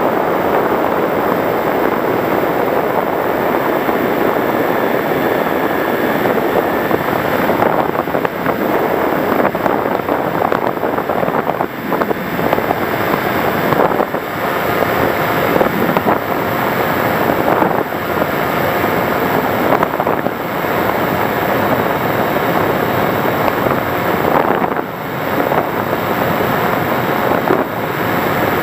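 Onboard sound of an FPV model aircraft in flight: a steady loud rush of wind over the onboard camera's microphone mixed with the drive noise, dipping briefly now and then.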